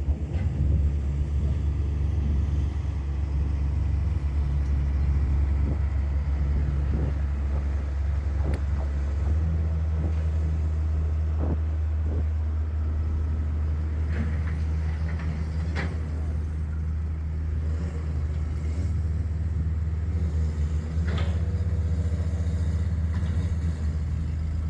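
Heavy machinery engine running steadily at a low hum, its note shifting about nine seconds in, with a few scattered knocks.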